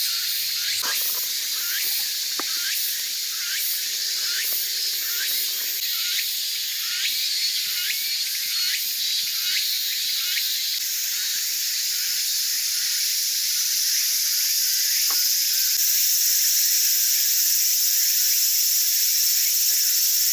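Small wood fire burning in a compact steel fire stand, a steady hiss with frequent sharp crackles and the odd pop. The hiss grows louder and steadier near the end.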